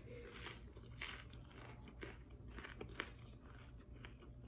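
Close-up chewing of a crispy deep-fried taro and shrimp fritter wrapped in fresh lettuce, a string of irregular crisp crunches.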